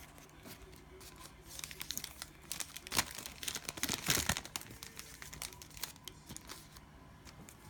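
Cellophane wrapper of a trading-card pack crinkling and tearing as it is opened, loudest in the middle of the stretch and tailing off near the end.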